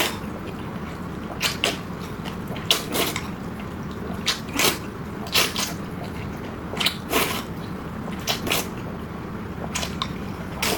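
Close-miked eating sounds: wet chewing and mouth smacks, a pair of short smacks about every second and a half, over a steady low background hum.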